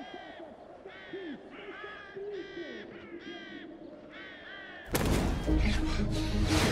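A run of about seven harsh, repeated bird calls, caws spaced roughly half a second to a second apart. Loud music cuts in suddenly about five seconds in.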